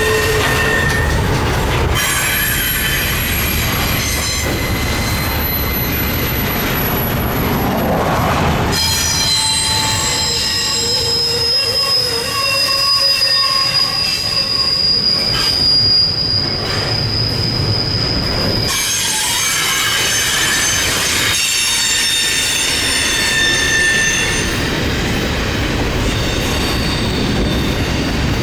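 Norfolk Southern freight cars rolling past with their steel wheels squealing in high, steady tones over a low rumble and clatter. The squeal pitches shift abruptly a few times.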